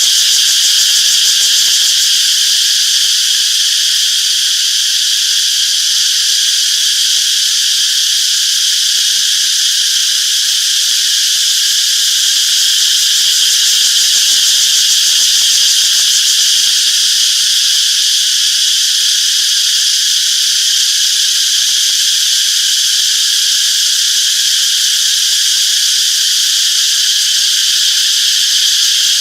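Chorus of cicadas singing, a dense, steady high-pitched drone with no breaks.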